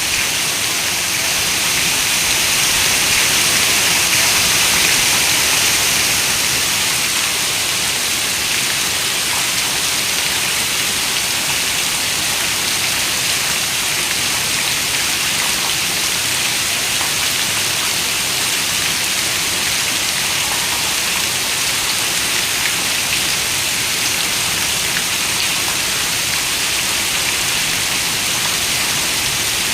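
Heavy rain falling on a window glass in a dense, even hiss, swelling slightly a few seconds in and then holding steady.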